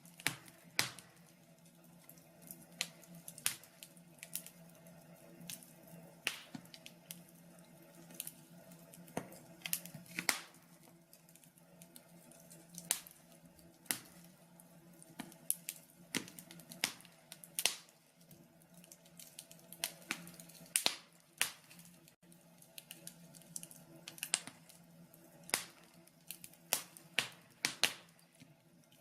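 Wood fire in a log burner crackling: irregular sharp pops and snaps, sometimes several close together, over a faint low steady hum.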